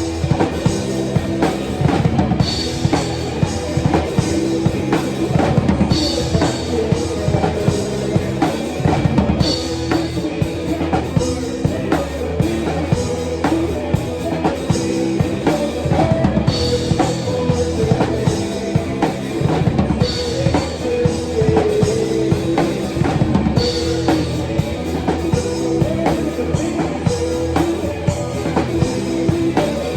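Live rock band playing, with the drum kit loudest: steady kick and snare hits over a sustained bass and pitched instruments, and a cymbal crash about every three to four seconds.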